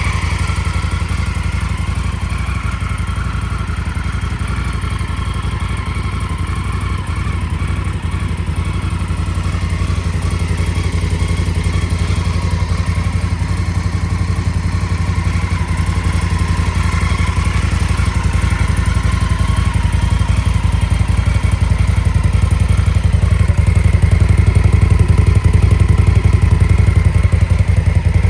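Indian Scout Bobber's liquid-cooled V-twin idling steadily through its split dual exhaust, with a deep, even beat, gradually getting louder.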